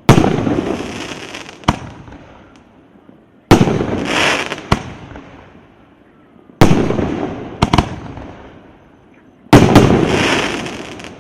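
Firework cake (C9008 'Gromovershets', 2 x 19 shots) firing. Four loud aerial bursts come about three seconds apart, each rolling away in a long echo, with a sharp crack following about a second after each.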